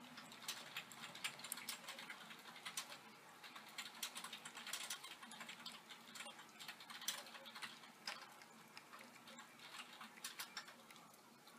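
Rain close by: raindrops tapping in quick, irregular ticks at a wet window screen, over a faint steady low hum. The taps thin out near the end.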